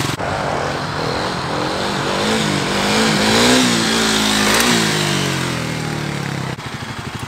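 Dirt bike engine revving under throttle during a wheelie: the pitch climbs to a peak about three and a half seconds in, then falls off, settling into a low, pulsing putter near the end.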